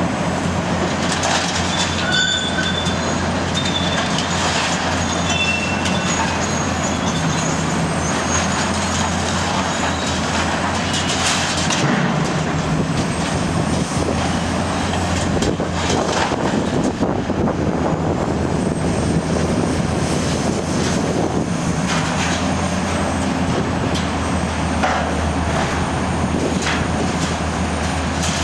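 Diesel engine of a Cat 345C UHD demolition excavator running steadily under load, while its hydraulic scrap shear cuts and tears steel. The cutting brings repeated metal knocks and clanks and high, thin metal squeals that come and go.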